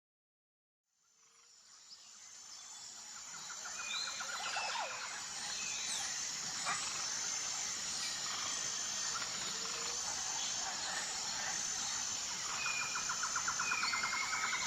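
Nature ambience fading in after about a second of silence: a steady high-pitched insect drone pulsing evenly, with birds chirping, trilling and whistling over it.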